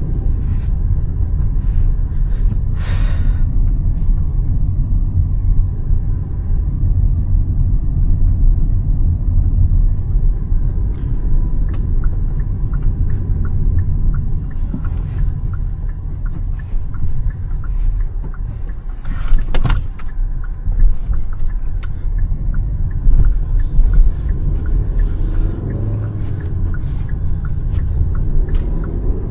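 Hyundai Verna 1.5-litre turbo-petrol car on the move: a steady low rumble of engine and road noise, with scattered light clicks and knocks and a sharper thump a little past the middle. Near the end the engine pitch rises briefly.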